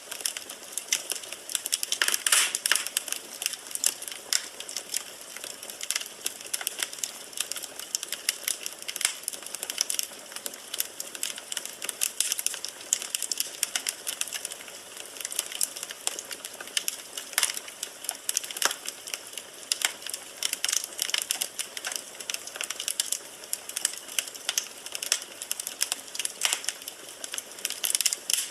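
Firewood burning in a fireplace, crackling and popping with many irregular sharp snaps over a soft hiss.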